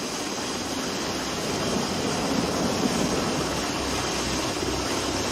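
Carrier jet's engine running at high power right after an arrested landing (a trap) on the carrier deck: a steady, even rush of jet noise that holds unchanged.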